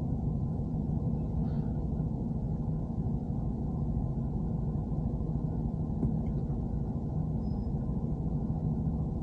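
BMW E90 running with a steady low rumble and a constant low hum, no clear knock or squeak standing out.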